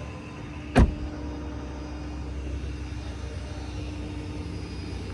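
A car door shuts with one loud thump about a second in, over the steady low rumble of a running vehicle engine.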